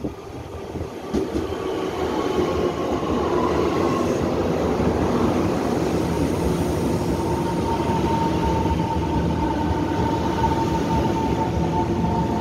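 Taiwan Railway electric multiple unit pulling in along the platform, its running rumble building over the first two seconds as the cars come alongside. A steady high whine joins about halfway through as the train slows.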